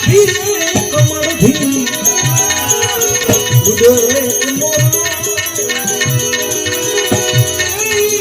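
Gujarati devotional bhajan music in an instrumental passage: a winding melody over a steady hand-drum beat with rattling percussion.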